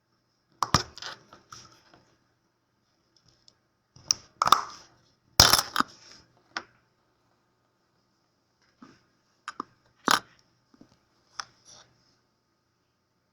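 Irregular sharp cracks and clicks, some in quick clusters, as the plastic and metal parts of an MR16 LED spot bulb are pried and broken apart with hand tools. The loudest come about four to six seconds in and again at about ten seconds.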